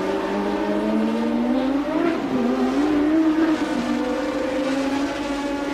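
1988 Formula One race cars' engines on track, several at once, their notes rising and falling as they accelerate, shift and pass. The pitch climbs over the first two seconds, dips, rises again about three seconds in, then holds.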